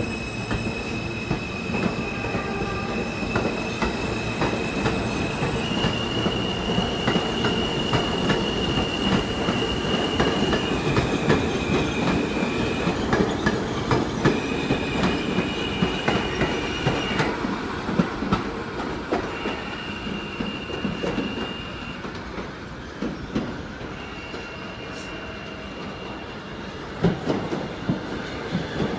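R160B Siemens subway train running, its propulsion whine holding steady high tones that jump in pitch in steps, over a constant rumble and rail clatter. It quiets somewhat in the last third, with a few sharp clicks near the end.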